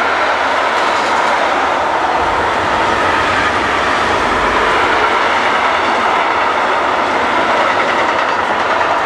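Wagons of an intermodal freight train, loaded with swap bodies and lorry trailers, rolling past: a loud, steady rolling noise of steel wheels on the rails that holds even throughout.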